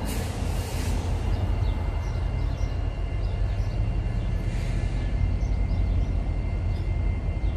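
Diesel freight locomotives rumbling steadily, with a steady high-pitched whine over the top and birds chirping. A short hiss rises at the start and again about halfway through.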